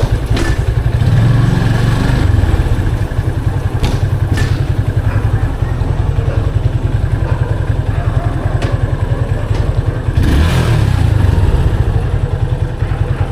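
Yamaha FZ 25's 249cc single-cylinder engine and stock exhaust running with an even pulse as the bike is ridden, getting louder for a couple of seconds about ten seconds in as the throttle opens.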